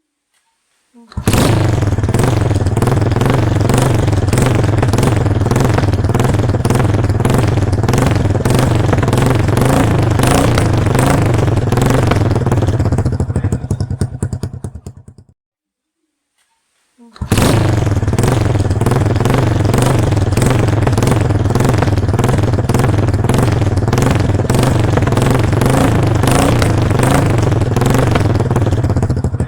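TVS Victor motorcycle's single-cylinder four-stroke engine running with a steady, rapid firing beat after nine years unused, just after the spark plug was cleaned. It fades out about halfway through and, after a short silence, is heard running again.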